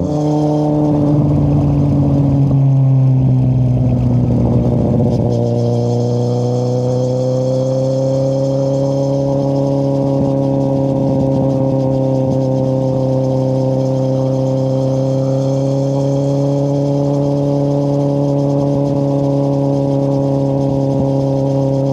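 2013 Kawasaki Z800's inline-four engine through an Akrapovic exhaust with the dB killer removed, ridden on the road. Its note eases down a little over the first five seconds, then holds at steady revs as the bike cruises.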